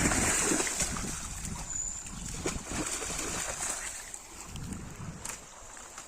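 Water splashing and sloshing in a river, loudest in the first second and then dying down, as a young Beauceron dog moves through the water.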